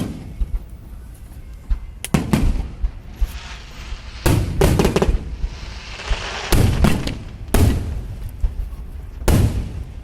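Aerial fireworks shells bursting, loud booms coming in clusters every second or two with echoing tails, and a crackling hiss of sparks between the bangs near the middle.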